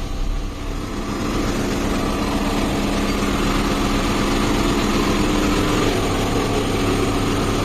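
Car engine idling steadily just after being started following a service.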